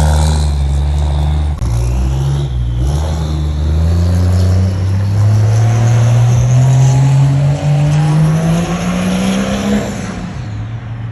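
Turbocharged pickup truck engine under hard acceleration, its note climbing steadily for several seconds before falling away near the end as it backs off.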